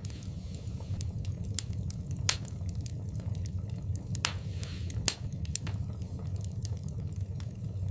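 Wood fire burning in a fireplace, crackling with irregular sharp pops over a steady low rumble. Two louder pops come about two and five seconds in, with a brief hiss between them.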